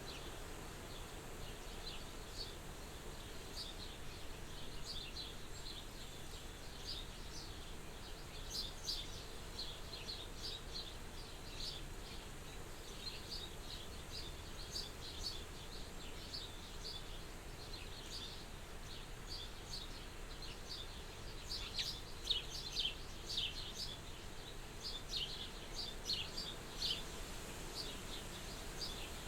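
Soft wind at a farmhouse window, a steady low hush, with small birds chirping many short, quick notes over it; the chirping grows busier and louder a little over two-thirds of the way in.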